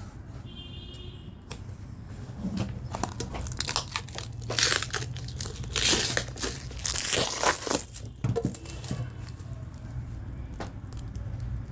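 Packaging crinkling and tearing as a charger is unboxed, in loud rustling bursts from about four to eight seconds in, over a low steady hum.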